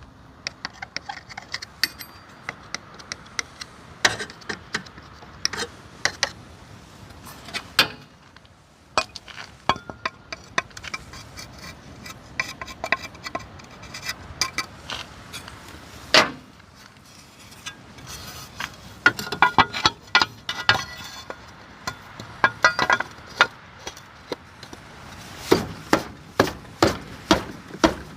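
Small metal carburetor parts and hand tools being handled on a workbench: a long run of light, irregular clicks and taps, with quicker clusters about two-thirds in and again near the end.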